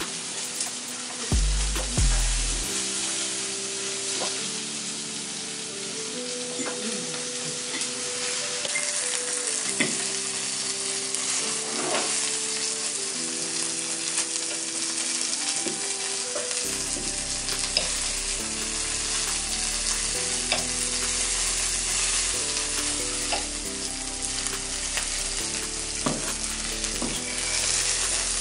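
Food sizzling and frying in a pan, a steady crackling hiss with a few light clicks, under background music with a simple stepping melody. A low bass line joins the music about 17 seconds in.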